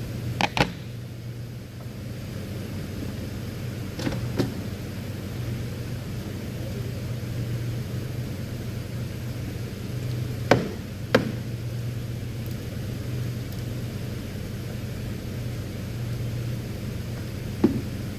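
Hand tools knocking and clinking on engine parts while a V6 engine is taken apart: about six sharp, short strikes, scattered, over a steady low hum.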